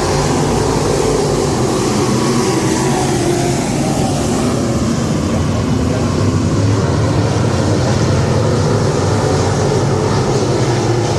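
Dirt-track modified race cars' engines running steadily at speed.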